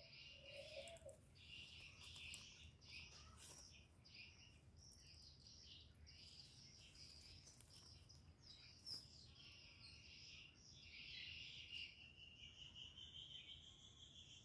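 Near silence with faint high-pitched chirping in the background, steadier towards the end.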